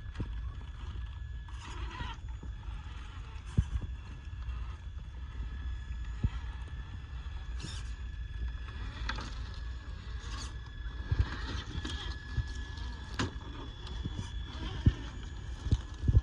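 RC crawler trucks driving on a wet trail: a steady electric motor and gear whine under a low rumble, with irregular knocks and clacks as the tyres and chassis climb over rocks.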